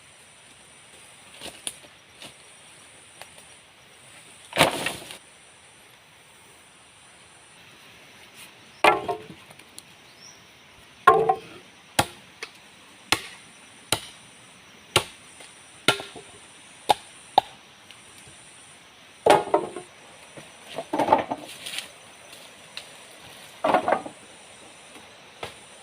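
Wood being chopped: irregular heavy strokes, with a run of lighter, evenly spaced knocks about once a second in the middle, over a steady high drone of insects.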